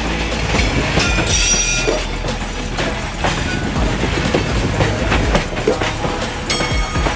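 Freight train wagons rolling past close by, their steel wheels clattering over rail joints and a turnout with a steady rumble. Brief high wheel squeals come about a second in and again near the end.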